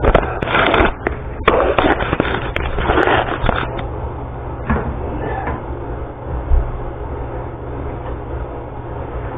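Toilet seat parts being handled and fitted: a cluster of knocks, clicks and scraping over the first four seconds, then a single knock about six and a half seconds in, over a steady low hum.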